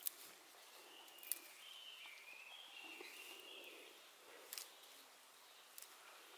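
Faint outdoor ambience with a small bird twittering in short, wavering chirps from about one to three and a half seconds in, and a few sharp clicks.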